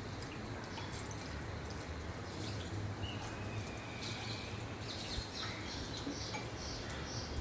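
Bird calls: a thin whistled note about three seconds in, then a run of short high chirps, about three a second, over a steady low hum.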